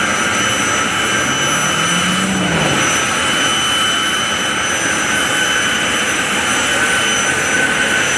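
Zivko Edge 540 aerobatic plane's Lycoming piston engine and propeller running loud and steady through an aerobatic routine. Its pitch rises and falls around two seconds in.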